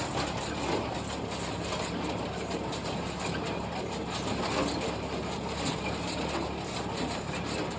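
Tractor-driven small square hay baler running steadily through the PTO: the engine hums while the plunger, flywheel and freshly repaired drive chain work with a continuous mechanical clatter.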